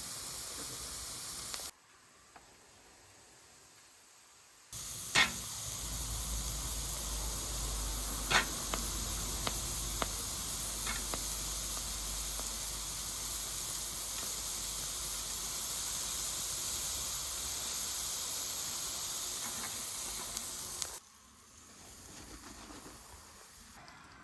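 Steady hiss of a gas flame heating steel for forging, in edited stretches, with a few sharp clicks.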